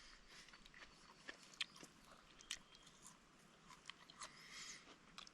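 Faint chewing of steak close to the microphone, with scattered small clicks and wet mouth sounds.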